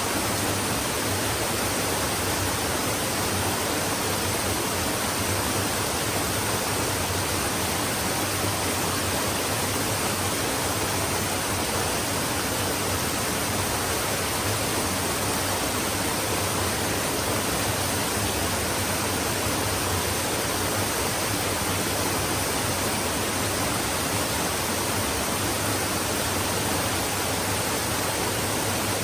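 A flowing stream running steadily: an even, unbroken hiss of water with no change in loudness.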